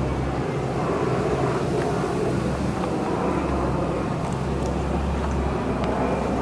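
A car engine running steadily with a low, even hum, with no revving.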